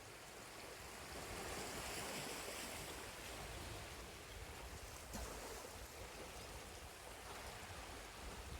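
Sea waves washing on the shore, a soft steady wash that swells a little about a second in.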